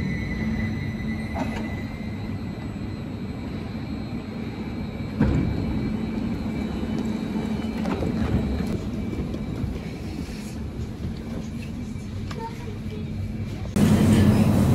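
Electric commuter train drawing to a stop at a platform: its motor whine falls in pitch over a steady low hum. A few knocks follow as the doors open and passengers step through. Near the end the sound cuts abruptly to a louder, steady hum inside the carriage.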